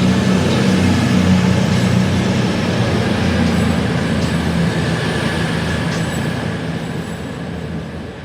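CrossCountry diesel train pulling out, its underfloor engines droning low over wheel and rail rumble. The sound fades steadily over the last few seconds as the train moves away.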